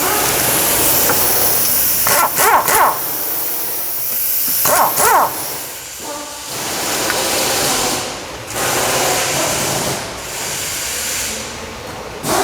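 Pneumatic wrench running in several short bursts with a hissing air rush and brief whines, trying to undo the nut on a worn-out stabilizer link.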